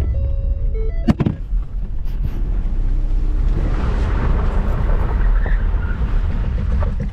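Car engine running with a steady low rumble, a sharp knock about a second in, and a rushing swell of tyre and road noise in the middle, with music over it.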